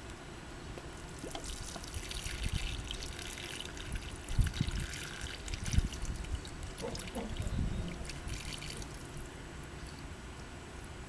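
Water poured from a watering can, splashing and trickling onto flowers for several seconds, with a few low thumps partway through.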